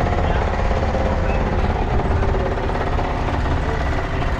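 An engine running steadily close by, with a rapid, even pulse.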